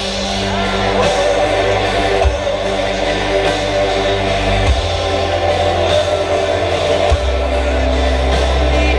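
A live band playing an instrumental passage of a rock song, with held low bass notes that change every couple of seconds.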